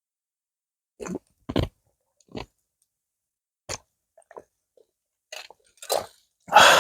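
A person sipping and swallowing a drink of soju mixed with sparkling water and lemon juice: a handful of short, separate gulping and mouth sounds, then a loud breathy 'ahh' near the end.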